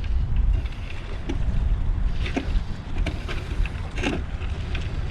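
Wind buffeting the microphone with a steady low rumble, with a few short clicks and scrapes scattered through it from handling the fiddler crab bait container.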